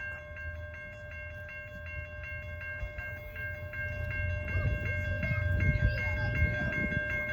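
Grade-crossing warning bell ringing steadily with quick, evenly spaced strikes, while the low rumble of an approaching BNSF intermodal train grows louder from about halfway through.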